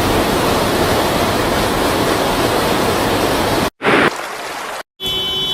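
Loud, steady rushing of storm floodwater. The noise breaks off abruptly a little under four seconds in, and short cuts of similar noise follow.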